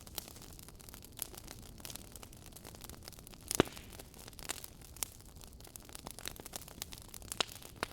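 Wood fire crackling: irregular small pops and snaps over a soft steady hiss, with one stronger pop about three and a half seconds in.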